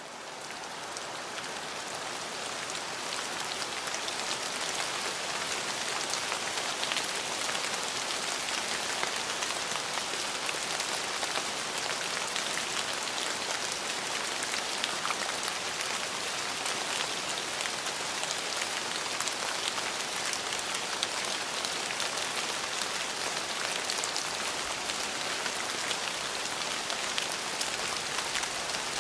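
Steady rainfall, a dense even hiss with many small drop ticks through it. It fades in from silence over the first few seconds, then holds steady.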